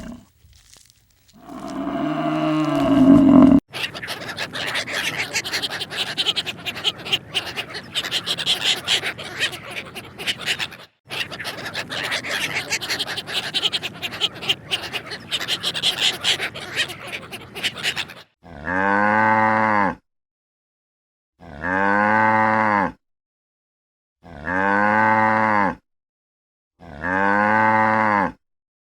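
Cow mooing: a low call in the first few seconds, then a long stretch of dense crackling noise, then an identical moo repeated five times at even intervals about every two and a half seconds.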